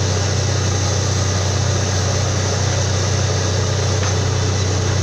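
Borewell drilling rig running steadily: a deep, unchanging engine drone with a constant hiss over it.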